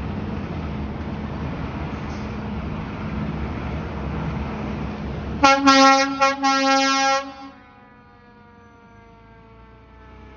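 Fire truck rumbling past, then sounding its air horn in loud blasts with two short breaks, about five seconds in; the horn's tone then slowly drops in pitch and fades away.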